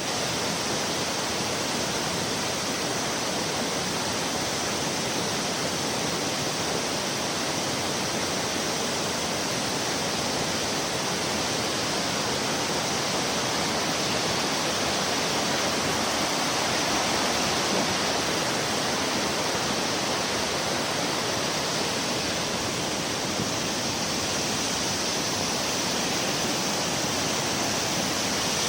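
Rushing floodwater flowing steadily over a washed-out road, a constant even roar of water.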